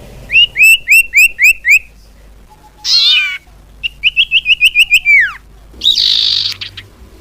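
Common iora (cipoh) calling: a run of six quick upslurred whistles, a harsh rasping note, then a faster series of about eight notes ending in a long falling whistle, and another rasp near the end.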